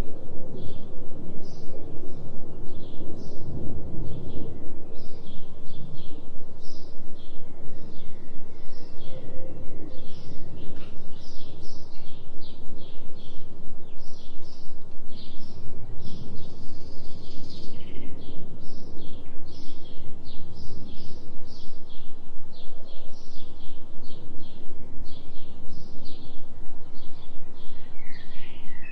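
Forest birds chirping over and over in short calls, laid over a steady low noise bed with a faint low tone, a delta binaural-beat track with a regular pulse in its loudness.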